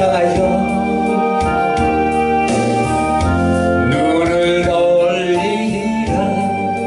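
Gospel music: sustained organ chords with a singing voice over them.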